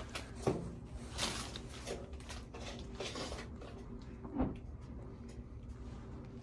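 Scattered light knocks and clunks of handling, the sharpest about half a second and four and a half seconds in, over a steady low mechanical hum.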